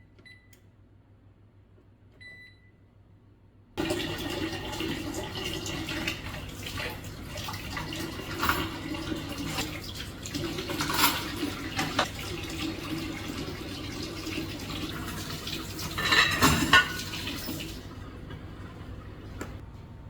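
A few short electronic beeps, then water running steadily for about fourteen seconds, with several sharp knocks in it, before it shuts off.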